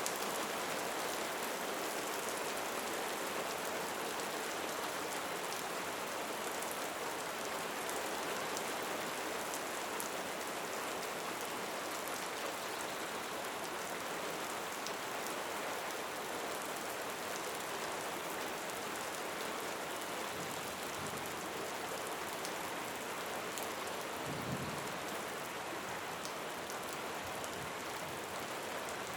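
Steady rain falling, with scattered drops ticking and a brief low thump about three-quarters of the way through.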